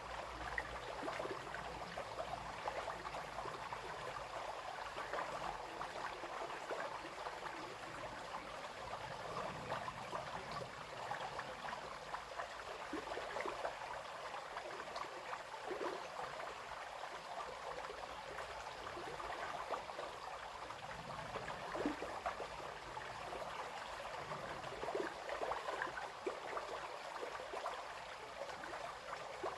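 Small brook babbling and splashing over stones, a steady rush with many little plinks and gurgles.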